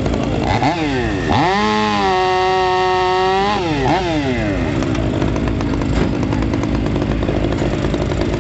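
Stihl chainsaw engine running rough and low, revving sharply up to full throttle about a second and a half in, holding there for about two seconds, then dropping back with a quick blip and settling into an uneven idle.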